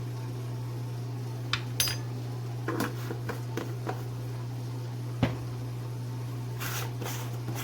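Scattered light clinks and knocks of kitchenware, spice containers and utensils against a bowl while spices are added to chicken, one ringing clink about two seconds in and a short rustle near the end. A steady low hum runs underneath.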